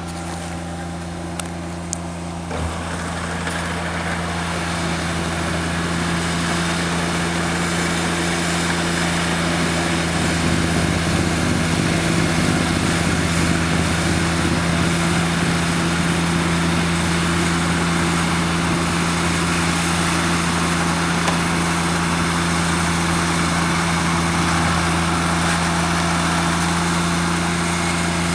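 John Deere tractor engine running steadily while snowblowing. About two and a half seconds in, a broad rushing noise joins the engine and builds over several seconds, then holds steady.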